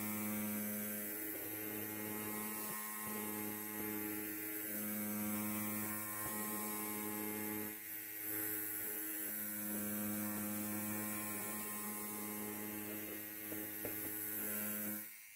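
Electric hair clipper running with a steady buzz, cutting off suddenly near the end.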